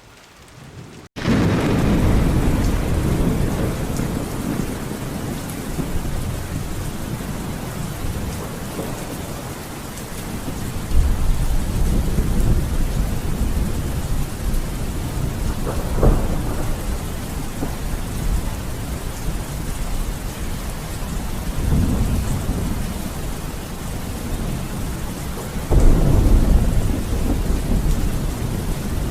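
Steady heavy rain with a thunderstorm, starting abruptly about a second in. Thunder rolls several times as low rumbles, with a sharper crack about halfway and the loudest rumble near the end.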